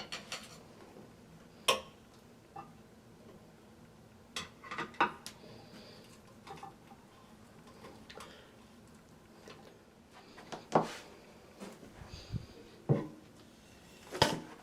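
Scattered sharp clinks and taps of small metal hardware (tank bolts, washers and nuts) being handled and set against the toilet, a few with a brief ring.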